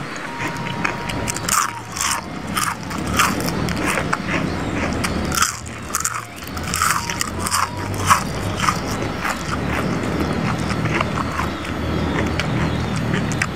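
Close-up crunching and chewing of a crispy battered, deep-fried leaf: a run of sharp crackly crunches with each bite and chew that stops about nine seconds in.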